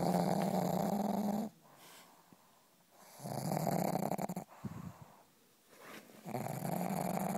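A sleeping pug snoring: three long snores about three seconds apart, each holding a steady low pitch for over a second, with much quieter breaths in between.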